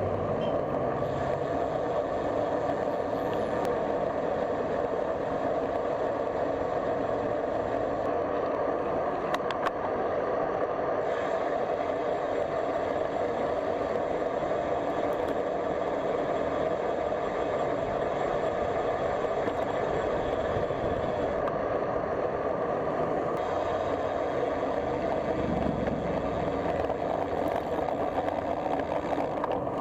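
Steady road and traffic noise heard while riding a bicycle along a road, with motor vehicles around.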